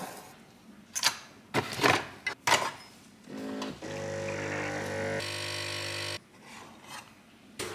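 A few clicks and clacks as a Nespresso capsule machine is loaded and closed. Its pump then hums steadily for about three seconds while the espresso pours into the cup, and cuts off suddenly.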